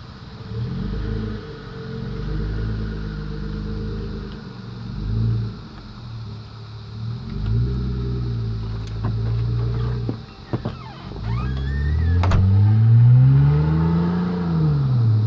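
Toyota Avalon with its muffler removed, the engine revved several times through the open exhaust, each rev rising in pitch, holding briefly and dropping back. The longest and loudest rev comes near the end. A few sharp clicks are heard about two-thirds of the way in.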